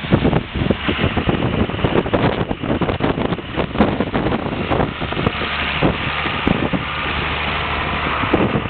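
John Deere 4450 tractor's six-cylinder diesel engine running steadily, with blizzard wind gusting over the microphone.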